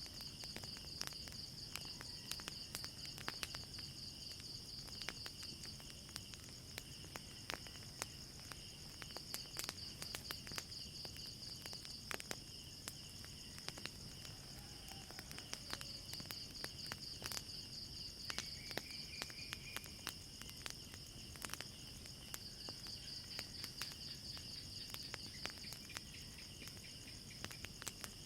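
Crickets keeping up a steady pulsing trill over scattered sharp pops and crackles from a wood fire.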